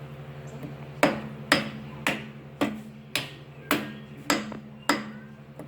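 A hammer striking about nine times at an even pace of roughly two blows a second, knocking on the seized engine's stuck valves to free them.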